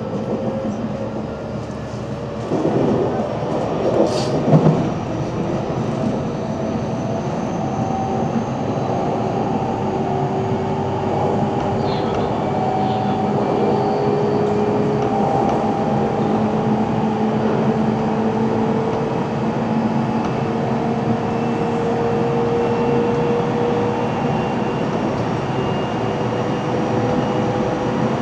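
JR 313-series electric train running, its traction motor whine slowly rising in pitch as it gathers speed, over steady wheel and track noise. A few sharp clacks from the wheels over rail joints or points come about three to five seconds in.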